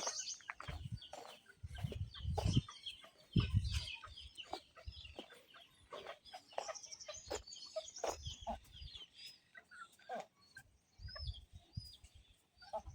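Chickens clucking, with many short high-pitched chirps throughout. Several low dull thumps, the loudest sounds, come in clusters about 2 s, 3.5 s, 8 s and 11 s in.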